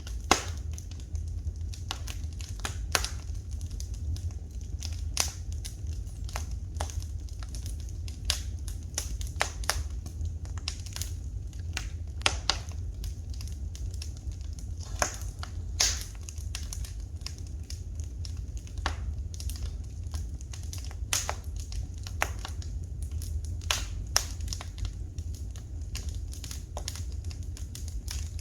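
Wood fire crackling in a fireplace: irregular sharp pops and snaps, a few a second at random, over a steady low rumble.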